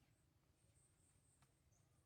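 Near silence: faint outdoor ambience with a thin, broken high-pitched chirring and one faint click about a second and a half in.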